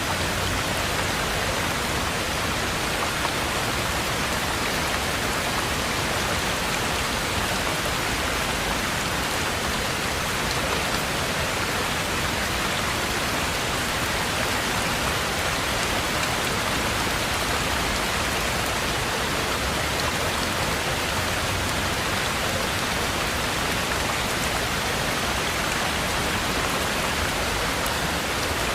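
Heavy rain falling steadily: an even, unbroken hiss of rain with no pauses or changes.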